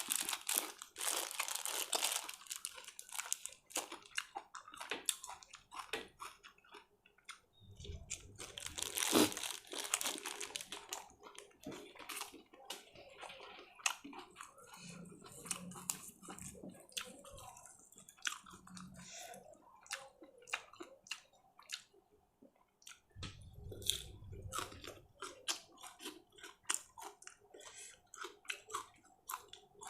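Close-miked chewing and mouth sounds of someone eating grilled pork salad and sticky rice: a string of short wet clicks and smacks, thicker around two seconds in and again about nine to ten seconds in.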